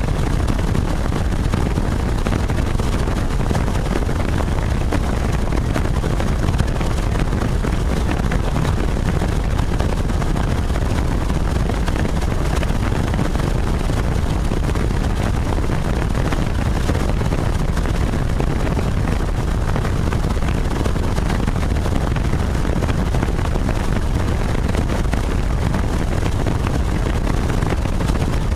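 Helicopter engine and rotor noise, a steady, loud low rumble that does not change.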